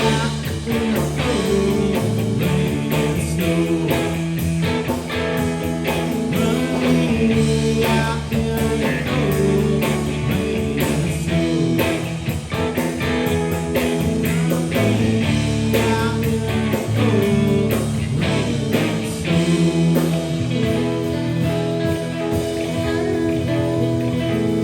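Live blues-rock band playing, with electric guitar to the fore over bass and a steady drum beat.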